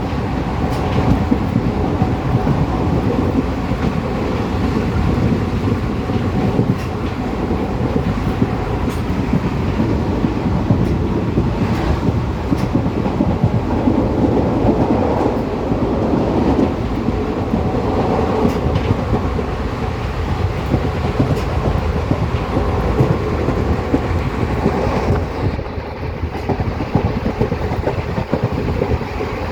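Moving train heard from on board: a steady rumble of wheels and carriage, with faint clicks now and then.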